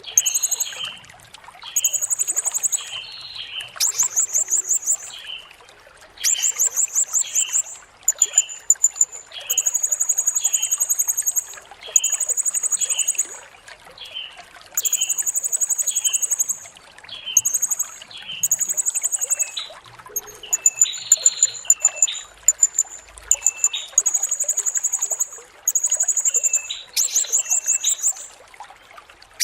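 Blue-crowned hanging parrot (serindit) calling over and over: very high, shrill, buzzy trills about a second long, one every second or two, with short lower chirps in between.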